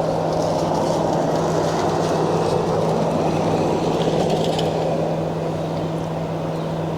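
A steady mechanical hum with a constant low drone, unchanging throughout, with a few faint light clicks over it.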